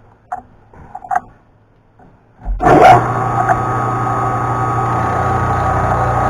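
A few light clicks, then about two and a half seconds in a knee mill's motor switches on and comes up to speed, running steadily with a constant hum and whir.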